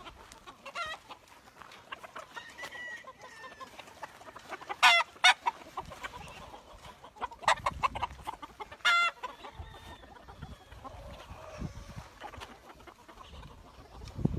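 Chickens clucking and calling. There are scattered short sharp calls, the loudest a cluster about five seconds in and another about nine seconds in.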